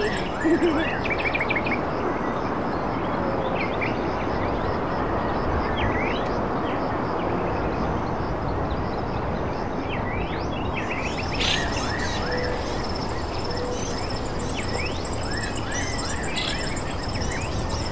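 Birds chirping now and then over a steady rushing background noise, with a faint steady high-pitched whine.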